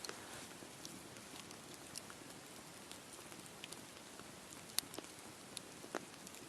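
Wood campfire burning: a faint steady hiss with scattered crackles and pops, the sharpest about three-quarters of the way in.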